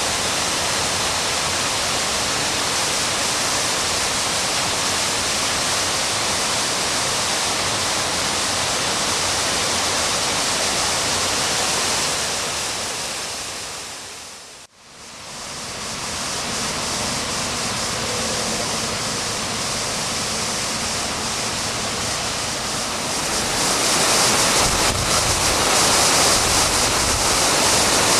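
Waterfall rushing in a steady roar of falling water. It fades out about halfway through, fades back in, and grows louder near the end.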